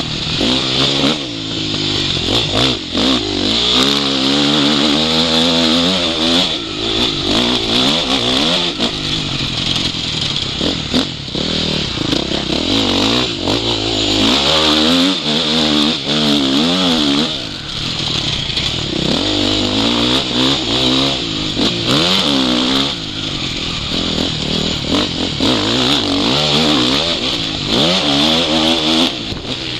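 Motocross bike engine revving up and down as it is ridden hard, its pitch climbing and dropping every second or two with gear changes and throttle-offs, over a steady hiss.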